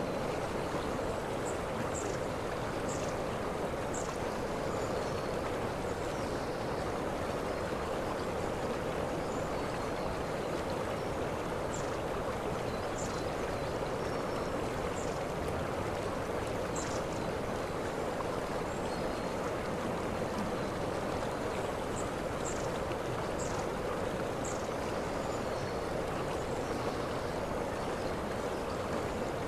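Waterfall rushing steadily, with short high chirps now and then.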